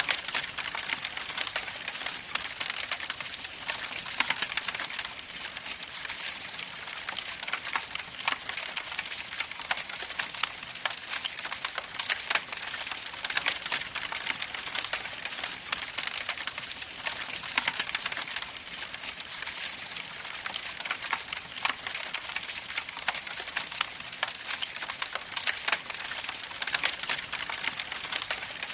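Wood campfire burning, with a steady hiss and dense, irregular crackles and pops.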